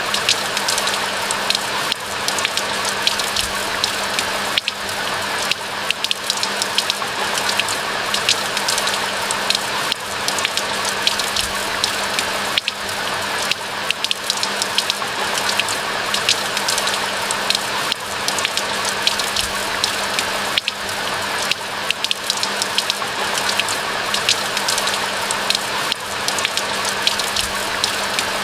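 Steady rain falling: a constant hiss with many close, sharp drop taps scattered through it. A faint steady low hum runs underneath.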